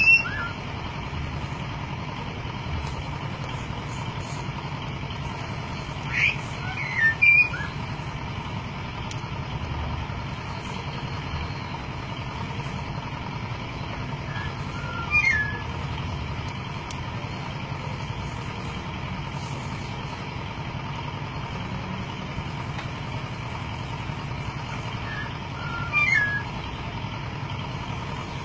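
Golden myna giving short bouts of loud whistled calls with gliding pitch, a few seconds to ten seconds apart: one at the start, two about six to seven seconds in, one midway and one near the end. A steady low hum runs underneath.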